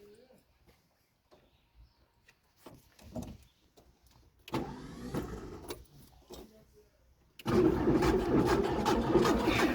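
VW Golf Mk1 being cranked over on its starter, in two tries: a short, quieter one about four and a half seconds in, then a much louder, longer crank from about seven and a half seconds on. The car has stopped starting, and the mechanics blame the distributor.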